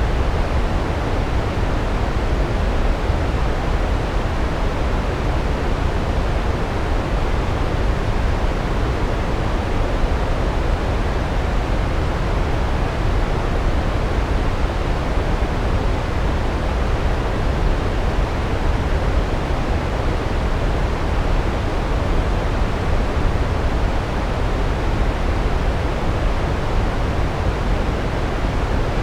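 Large waterfall: a steady, unbroken rush of falling water, deep and heavy in the low end, without change.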